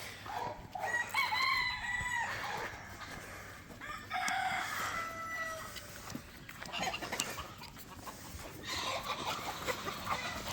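Roosters crowing, two long crows a few seconds apart, with chickens clucking around them.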